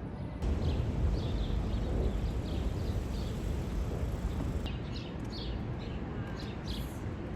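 Small birds chirping repeatedly, short high calls several times a second, over a low steady outdoor rumble that gets louder about half a second in.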